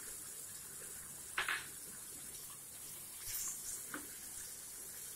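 Sliced onions and tomatoes sizzling in butter in a frying pan as cashews are dropped in and stirred with a spatula: a steady high hiss, with a brief knock about a second and a half in.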